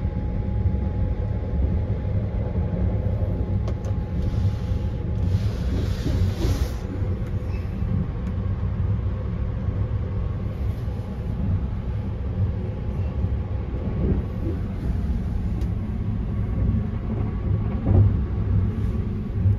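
Sunrise Izumo sleeper train (285 series electric train) running, heard from inside its compartment: a steady low rumble of wheels on rail, with a short rush of hiss about five seconds in and a single knock near the end.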